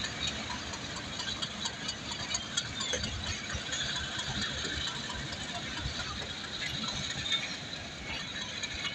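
Passenger train coaches rolling past a platform: the wheels clatter and click irregularly over the rail joints above a steady rumble of the running gear.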